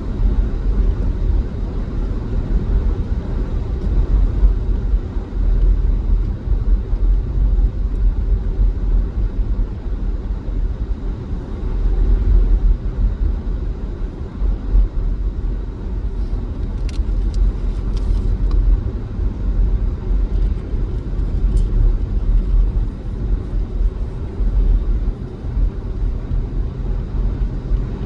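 A car driving on a highway, with a steady low rumble of engine and tyres on the road. A few faint clicks come about two-thirds of the way through.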